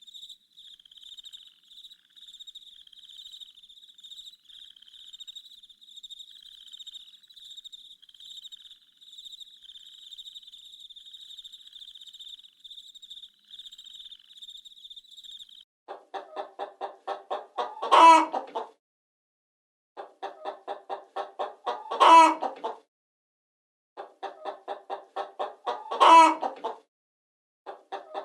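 Crickets chirping steadily, then a hen cackling: runs of quick clucks that each build to one loud squawk, three times about four seconds apart, with a fourth run starting at the end.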